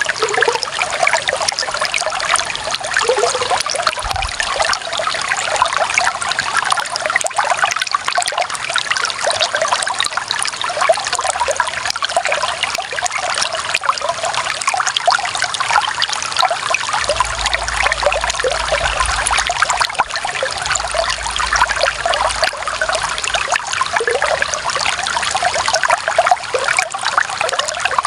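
Shallow running water trickling and splashing in a steady, bubbling flow. A faint low rumble sits underneath for a few seconds past the middle.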